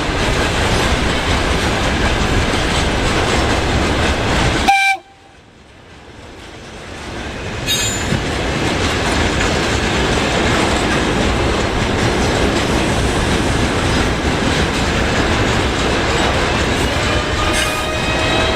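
ES2G Lastochka electric train running on the rails, a steady loud rush of wheel and rail noise. A short horn-like tone sounds just before the noise cuts off abruptly about five seconds in; the train noise then builds up again, and near the end a rising whine comes in over it.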